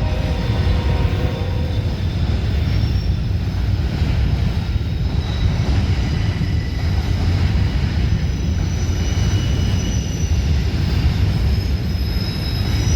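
Freight train rolling past at close range: a steady heavy rumble of cars and wheels on the rails, with thin high wheel squeals coming and going.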